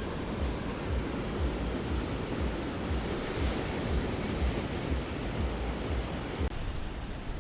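Ocean surf washing onto a sandy beach, swelling about halfway through, with wind rumbling on the microphone.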